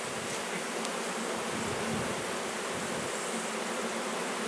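A large swarm of honey bees buzzing: a steady, dense hum of many bees in flight.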